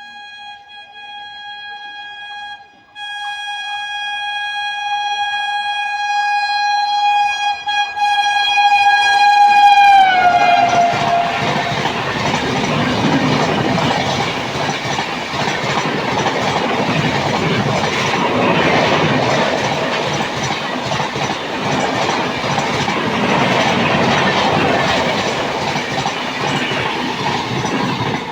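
Indian Railways locomotive sounding a long, loud horn blast as the train approaches, broken once briefly. The horn's pitch drops as the locomotive passes, and the train runs by with a steady noise of wheels on the rails.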